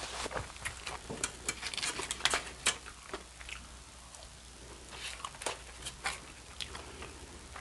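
Close-miked eating sounds: wet chewing with crisp clicks and lip smacks as french fries are eaten. The clicks come thickest in the first three seconds, then again about five to six and a half seconds in.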